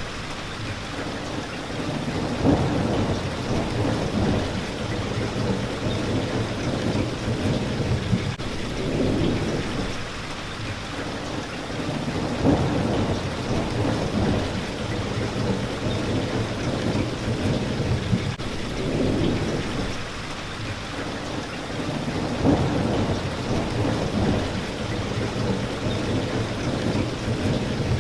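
Steady rain hitting a window, with low rumbles of thunder swelling and fading every three to four seconds.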